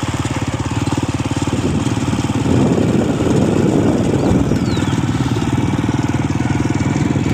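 Motorcycle engine running steadily with a rapid firing pulse while riding along a dirt road, with a surge of louder road and wind noise for a couple of seconds near the middle.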